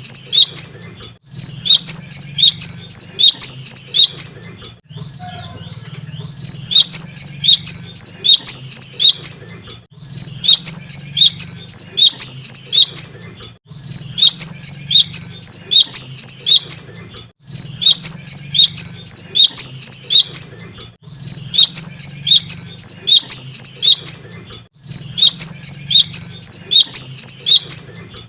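Cinereous tit (gelatik batu) singing: loud bursts of rapid, high, repeated chirps, each burst lasting two to three seconds with short pauses between, over a faint steady low hum.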